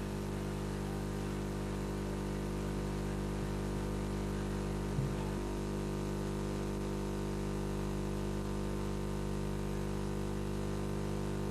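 Steady electrical mains hum with a buzzy stack of overtones and light hiss. A small tick comes about five seconds in.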